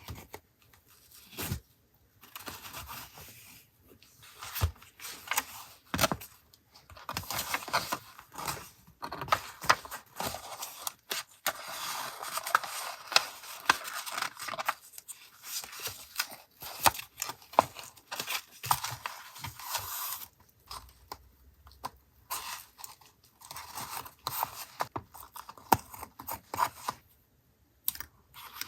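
Paper craft materials being handled up close: rustling, crinkling and tearing of paper in bursts, with sharp little clicks and taps and short pauses between.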